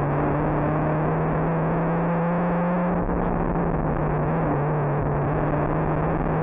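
Rally car engine running hard at high, fairly steady revs, heard loud from inside the cabin.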